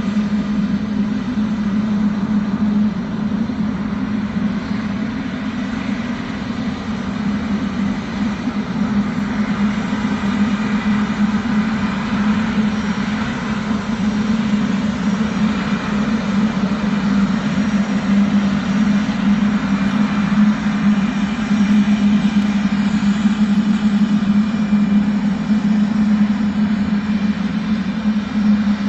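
Boeing 777's jet engines running at idle thrust while the airliner taxis: a steady low drone over a rushing jet noise, swelling a little midway.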